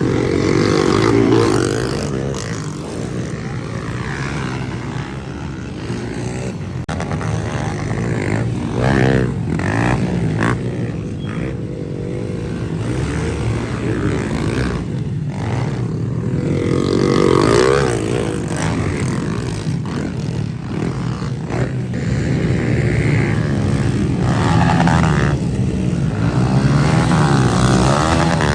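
Pit bike engines running on a dirt track, their pitch rising and falling over and over as the bikes rev up, shift and pass, with several louder swells.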